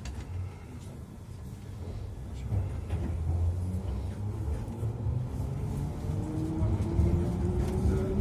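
London Underground Piccadilly line train pulling away and gathering speed: a low rumble growing louder, with a motor whine rising in pitch in the second half.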